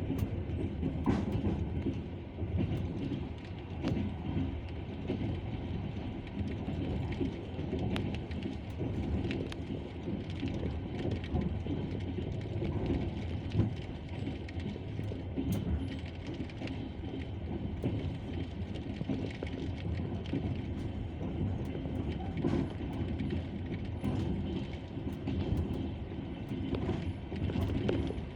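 Steady rumble and clickety-clack of a passenger train's wheels rolling over the rail joints, heard from inside the carriage, with scattered sharp clicks over the rumble.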